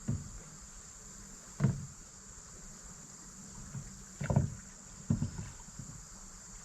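A few hollow knocks and bumps against a kayak, the loudest about a second and a half in and just past four seconds, over a steady high insect drone.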